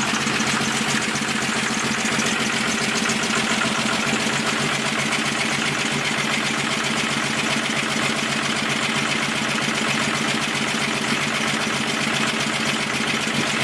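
12-valve Cummins 5.9-litre inline-six diesel in a 1995 Dodge Ram 2500 idling steadily with diesel clatter just after a cold start in freezing weather. It is still cold and firing on only about three cylinders.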